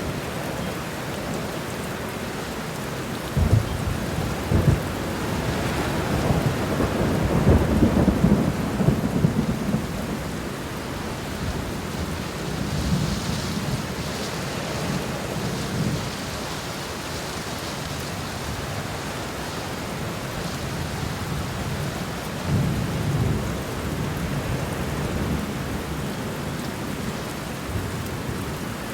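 Steady rain falling, with thunder rumbling: a long roll from about three seconds in that peaks around eight seconds, and a second, shorter rumble near the twenty-two-second mark.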